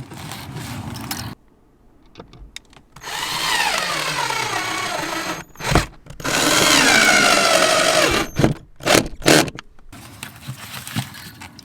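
Power drill running in two long spells whose pitch slides down as it works under load, followed by a few short bursts.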